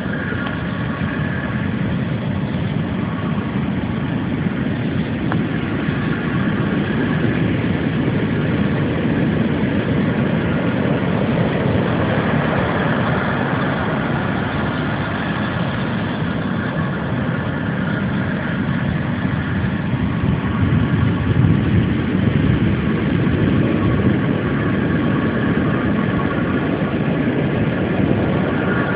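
Ocean surf washing and breaking on a beach: a continuous low rumble that swells a little louder in the second half.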